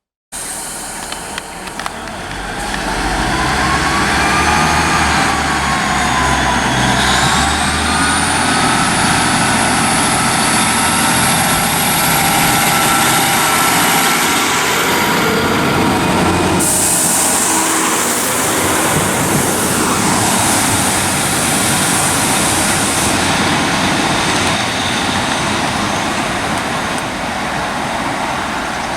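Diesel passenger train passing, with a low engine rumble at first, then a steady rush of wheels on the rails. High squealing tones glide upward in pitch over the first several seconds.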